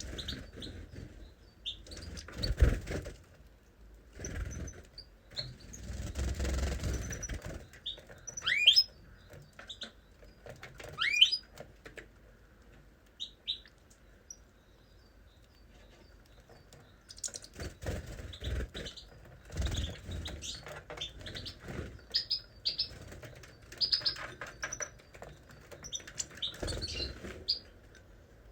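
Small cage birds chirping and calling, with two quick downward-sliding whistles about a third of the way in. Several short, louder rustling bursts are mixed in among the calls.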